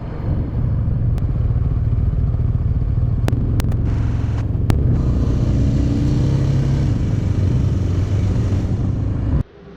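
Motorcycle engine running steadily while riding, a low rumble that cuts off suddenly near the end.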